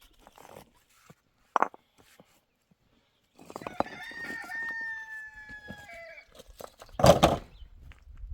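A rooster crowing once, one long drawn-out call that falls slightly in pitch at its end. A short, loud knock sounds about a second after the crow ends.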